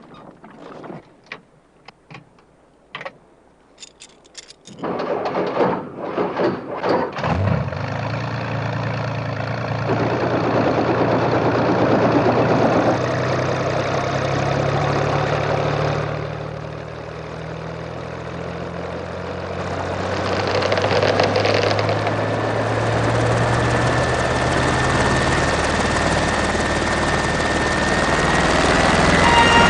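A helicopter's engine and rotor come up about five seconds in after a few faint knocks, then run steadily while towing, dipping briefly and building again.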